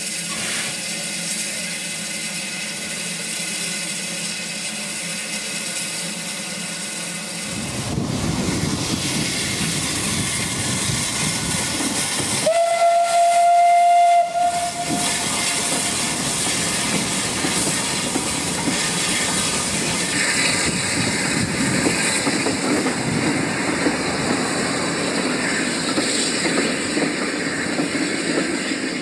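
A heritage railway train: a steady hiss at first, then a heavier rumble and rail clatter from about eight seconds in as the train runs. A single whistle blast of under two seconds sounds about twelve seconds in.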